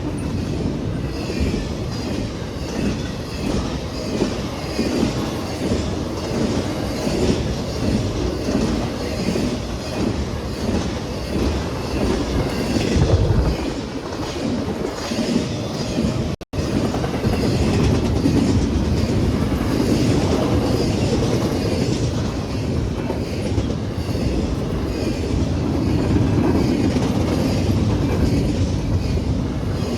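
A Norfolk Southern intermodal freight train rolling past: a steady rumble of the cars with wheels clicking rhythmically over the rail joints. The sound cuts out for an instant about halfway through.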